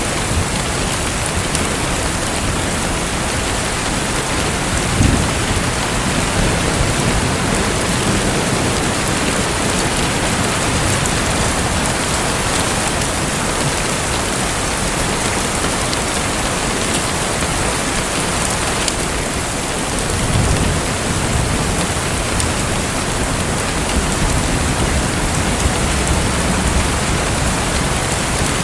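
Steady rushing, pattering water noise, with brief low rumbling swells about five seconds in and again about twenty seconds in.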